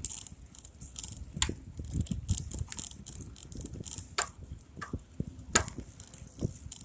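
Bicycle being ridden, its parts rattling with irregular small clicks and knocks as it rolls along.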